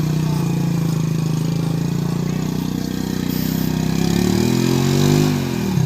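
Motorcycle engine running at a steady note, then revving up about four seconds in and dropping back near the end.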